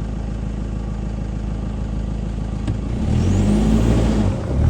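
Truck engine driving up a gravel track, a steady low drone. About three seconds in it revs higher and louder, drops off briefly near the end, then picks up again.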